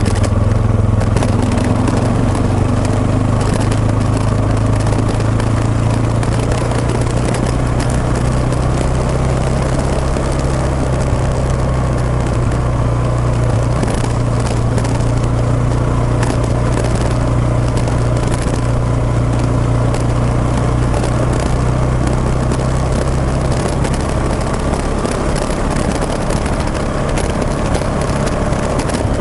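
Single-cylinder engine of a Suzuki Djebel 250XC trail motorcycle running at a steady cruise, picked up by a bike-mounted microphone together with wind and rumble noise.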